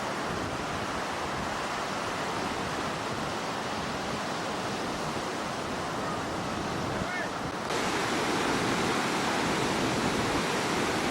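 Steady rush of storm surf and wind, with wind buffeting the microphone. About two-thirds of the way through, the sound cuts abruptly to a louder, duller rush.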